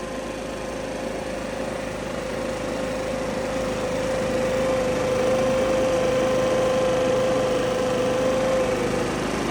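Makita EB7660TH backpack blower's four-stroke engine running at a steady pitch with its fan rushing air. The sound grows gradually louder over the first half and eases slightly near the end.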